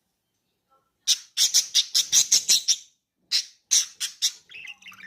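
Budgerigar giving loud, harsh squawks starting about a second in: a rapid run of about ten calls, a short pause, then three more about half a second apart, trailing into softer chirps near the end.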